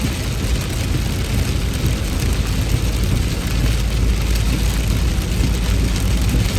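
Heavy rain falling steadily, a loud even hiss with a constant deep rumble underneath.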